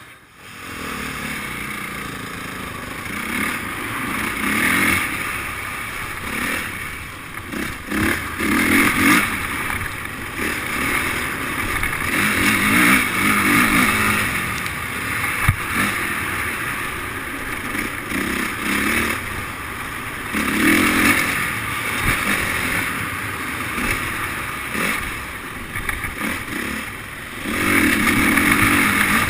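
Motocross bikes running, engines repeatedly revving up and dropping back every few seconds.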